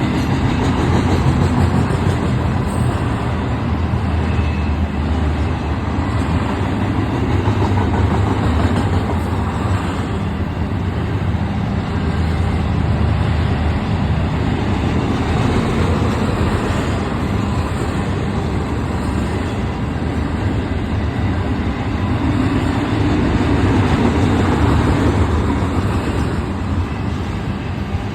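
Double-stack freight train rolling past with a steady, loud rumble of steel wheels on the rails.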